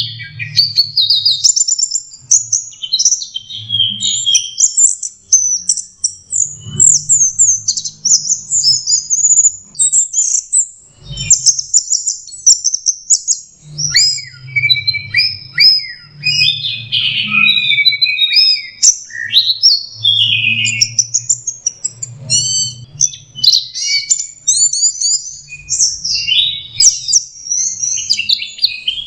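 Orange-headed thrush (anis merah) singing a rapid, rambling run of varied chirps, trills and whistles with hardly a pause: a young bird still learning its song.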